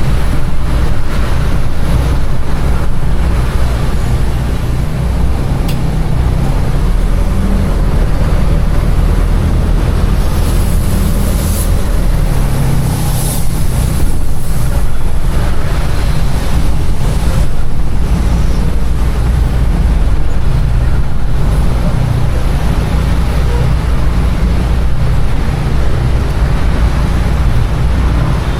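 Container truck's diesel engine running with a steady low rumble, with two brief hisses about ten and thirteen seconds in.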